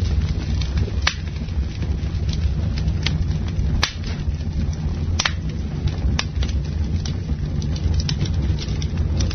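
Campfire burning with a steady low rumble, and sharp crackles and pops from the burning wood every second or so.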